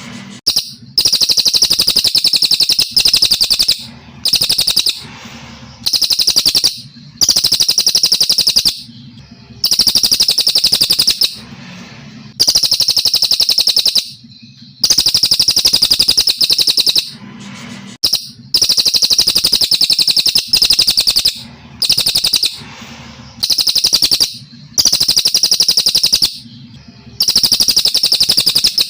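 Brown cililin singing: a steady series of loud, rapid, high-pitched trilled phrases, each about a second long, repeated roughly every two seconds.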